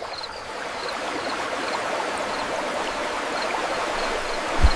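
Steady rushing water like a stream, swelling in over the first second, with faint high chirps here and there and a short low thump near the end.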